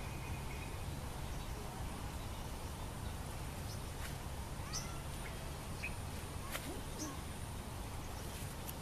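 A few short, faint bird chirps, scattered through the middle, over a steady low rumble of outdoor ambience.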